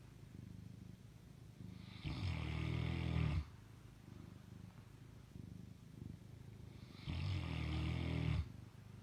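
Fila Brasileiro dog snoring in deep sleep: two loud rasping snores about five seconds apart, each lasting about a second and a half, with quieter breathing between.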